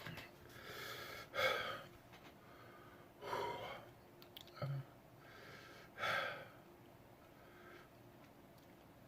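A man breathing hard through his mouth in a string of short, audible breaths and gasps, three of them louder than the rest. He is reacting to the burn of a superhot chili pepper.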